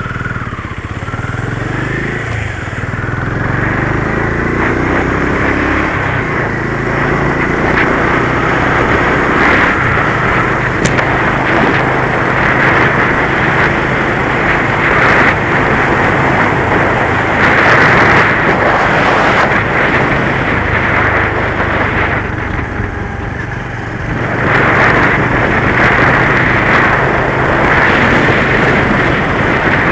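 Motorcycle pulling away and accelerating, its engine note climbing in pitch through several gear changes, then a steady loud rush of engine and road noise at speed. The noise eases off briefly about three-quarters of the way through, then builds again.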